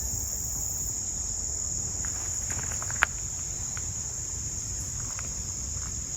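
Steady high-pitched chorus of insects trilling without a break. Over it come a few light ticks and one sharp click about three seconds in.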